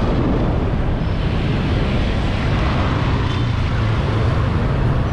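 Steady wind rush on the microphone mixed with the running of a motorbike and the surrounding road traffic, heard from the back of a moving motorbike taxi.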